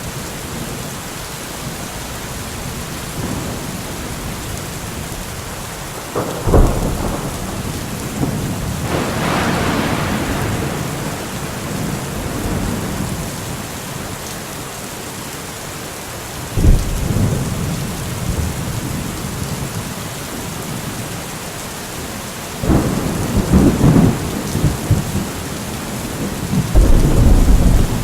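Steady heavy rain with rolls of thunder. Sharp low cracks and rumbles break in about a third of the way in, again past the middle, and twice in the last few seconds, with the last two coming close together.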